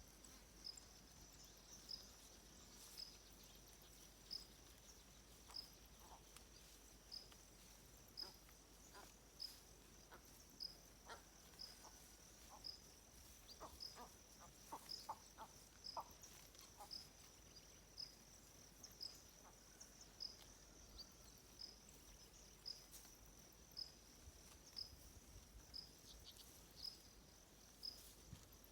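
Faint insect chorus: a steady high buzz with a regular short chirp about every two-thirds of a second, and a few scattered soft clicks midway.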